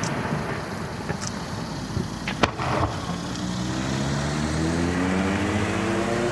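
Fireworks display between bursts: a single sharp crack about two and a half seconds in, then a low tone rising slowly in pitch over the last three seconds.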